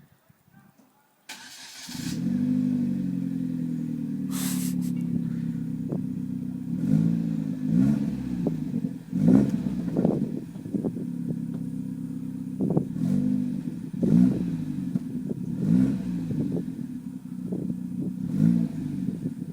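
Hyundai Genesis Coupe 2.0T's turbocharged four-cylinder engine, breathing through a Turbo XS cat-back exhaust, starting up about two seconds in and settling to an idle. It is then blipped about nine times in short revs that rise and fall quickly back to idle.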